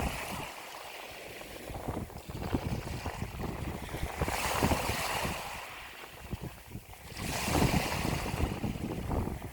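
Ocean waves breaking and washing, the surf swelling and fading several times, with wind rumbling on the microphone.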